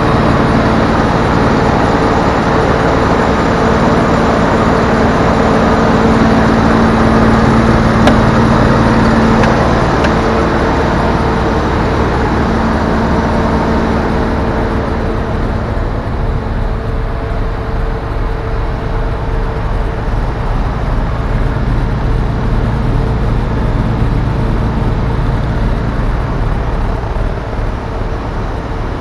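Diesel engine of a DAF LF55 refrigerated truck running, a steady hum with a whine in it for about the first half; about halfway through the whine fades and the sound turns lower and a little quieter.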